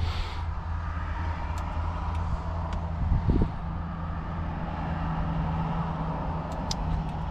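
A steady low mechanical hum, with a short knock about three seconds in.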